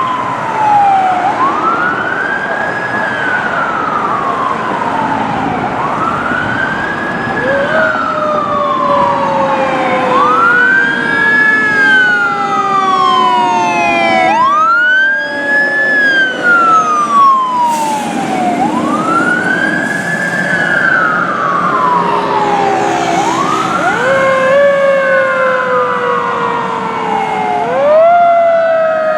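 Fire engine siren wailing on an emergency response: each cycle rises quickly, then falls slowly, repeating about every four seconds. A second, lower siren tone falls slowly alongside it from about a quarter of the way in.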